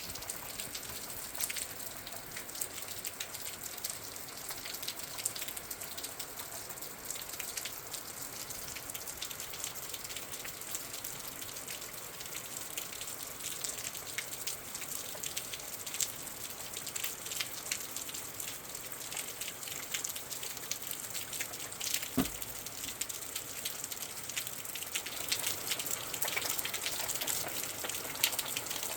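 Steady night rain falling, a continuous hiss dense with small drop ticks and patter, with one sharper tap about two-thirds of the way through.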